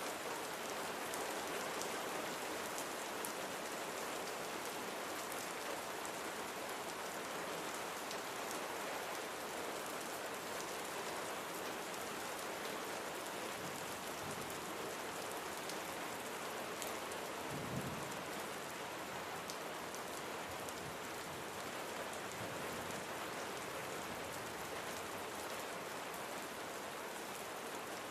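Steady rain falling, with individual drops ticking through the constant hiss. A brief low rumble comes a little past the middle.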